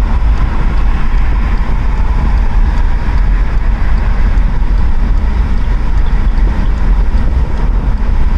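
Steady rush of car road noise and wind at motorway cruising speed, heard from inside the car. There is heavy low rumble, and wind buffets the microphone, consistent with a window open.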